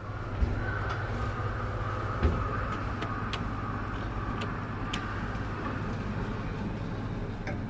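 Steady vehicle rumble with a low hum and a few light clicks.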